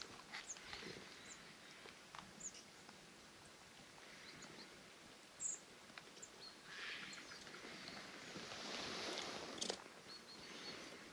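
Faint outdoor ambience with a few short, high bird calls scattered through it, a soft rustling hiss in the second half, and a few light clicks near the end.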